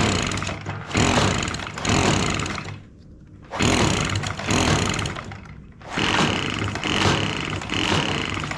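Echo PB-265L backpack blower's small two-stroke engine being cranked with its recoil starter, several pulls in a row, turning over without starting and running.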